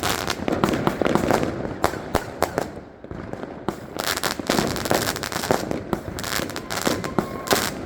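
Fireworks going off in a rapid, dense run of bangs and crackles, thinning briefly about three seconds in before picking up again.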